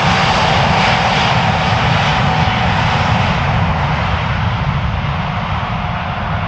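Twin-engine jet airliner's engines, a loud roar with a steady whine through it, fading gradually over the last few seconds.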